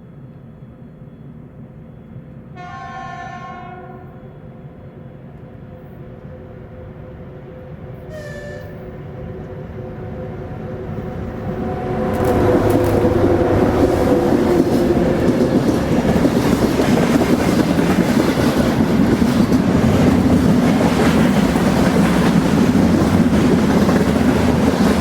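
A train approaching and passing. Its horn sounds once for about a second, then gives a shorter blast a few seconds later, while a rumble slowly builds. About twelve seconds in the train reaches the spot and goes by with a loud, steady rumble of its wheels on the rails.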